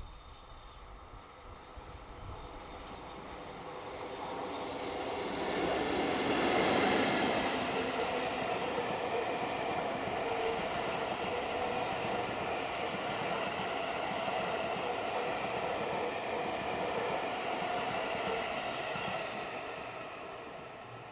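EF65 electric locomotive hauling a new Seibu 40000-series train past on a delivery run. The running noise builds, is loudest about six seconds in, holds steady as the cars roll by, and fades near the end.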